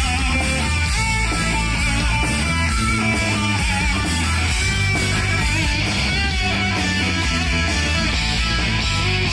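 Hard rock band playing live: electric guitar with wavering sustained notes over bass and drums keeping a steady cymbal beat.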